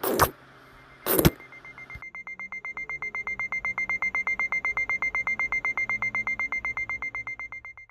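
Two loud thuds about a second apart, then an electronic alarm-clock beep: one high note pulsing about eight times a second, swelling and fading away near the end.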